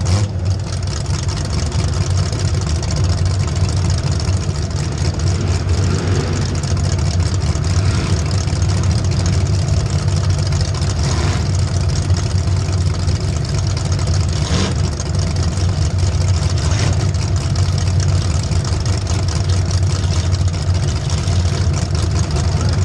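A race vehicle's engine running steadily in a constant low drone, with a few brief louder rasps along the way.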